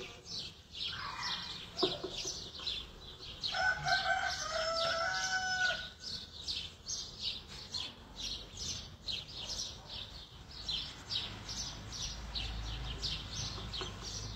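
Birds calling: a drawn-out call of about two seconds a few seconds in, then short chirps repeating two or three times a second.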